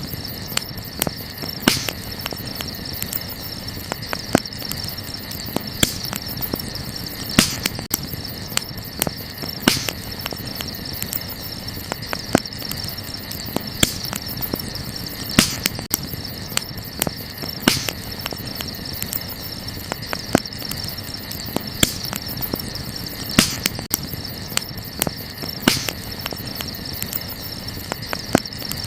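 Wood campfire crackling, with irregular sharp pops and snaps, a louder one every couple of seconds, over a steady chirring of crickets.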